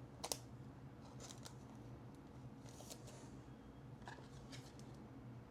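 Faint handling of trading cards: a sharp click just after the start, a few light ticks, and a soft brushing sound about three seconds in, over a low steady hum.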